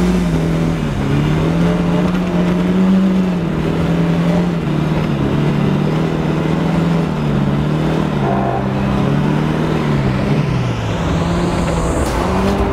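Ford Sierra's 2-litre Pinto four-cylinder engine heard from inside the cabin, its revs rising and falling over and over as the car drifts on ice.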